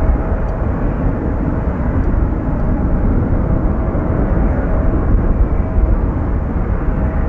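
Jet aircraft engines running: a steady rush with a faint whine that comes and goes, with wind buffeting the microphone.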